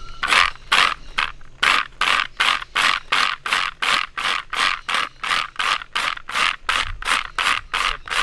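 Rapid, even scraping or rubbing strokes, about three a second, steady throughout.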